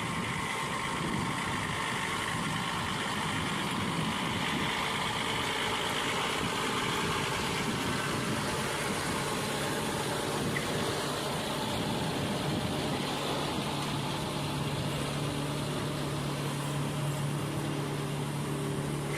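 Heavy truck's engine running with a steady noisy wash. From about two-thirds of the way in, a steady low engine hum holds.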